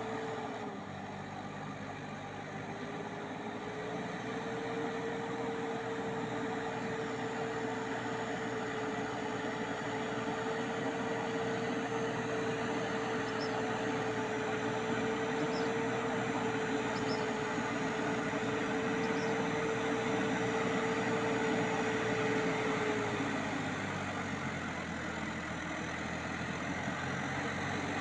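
Tractor engine running steadily with a high whine over it. The pitch drops just after the start, picks up again after a couple of seconds, holds steady, then drops once more near the end before rising again, as the engine slows and speeds back up.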